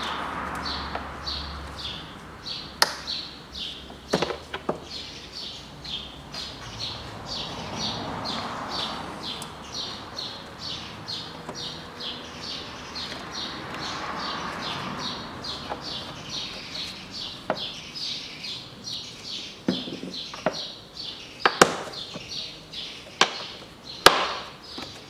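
A small bird chirping steadily, short high chirps about three a second. Now and then come sharp clicks and knocks from hand tools on the engine, the loudest near the end.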